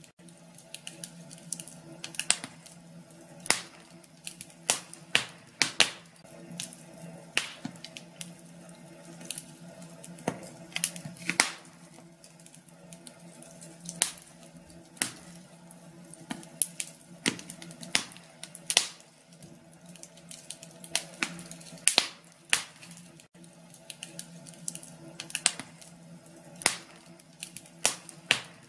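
Wood fire crackling in a fireplace: sharp, irregular pops and snaps over a steady low hum.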